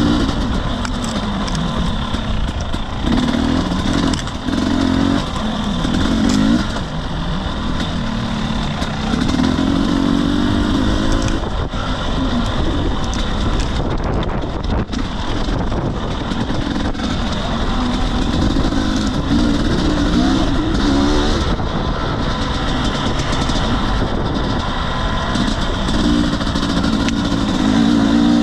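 2021 Husqvarna TE250i fuel-injected single-cylinder two-stroke dirt bike engine, revving up and dropping back again and again as it is ridden down rough single-track, with knocks and rattles from the trail over steady wind noise.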